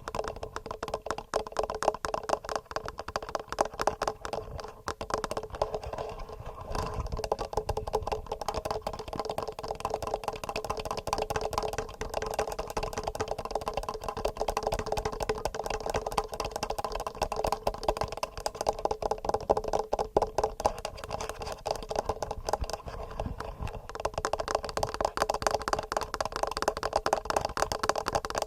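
Fingernails tapping fast and regularly on a TASCAM recorder's microphone: a dense, unbroken stream of small clicks.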